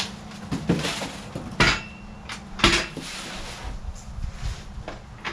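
Pittsburgh 3-ton steel floor jack being handled and set down: a few sharp metal clanks and knocks, three louder ones in the first three seconds, one with a brief ring.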